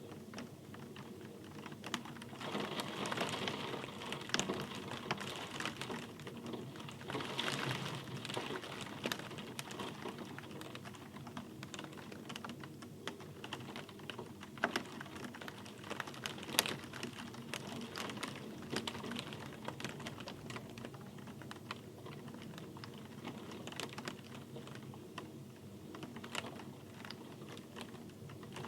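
Rain falling steadily, with many close drops making sharp, irregular ticks. It swells louder a couple of seconds in and again around eight seconds.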